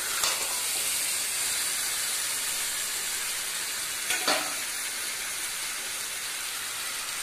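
Chicken pieces in thick masala sizzling steadily in a metal kadai over a low to medium flame as they are fried down for chicken kosha. A metal spatula scrapes the pan briefly just after the start and again about four seconds in.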